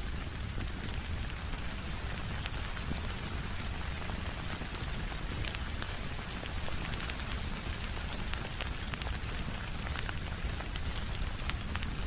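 Steady rain falling on a window, layered with a crackling wood fire: an even hiss over a low rumble, with many scattered sharp little ticks and pops.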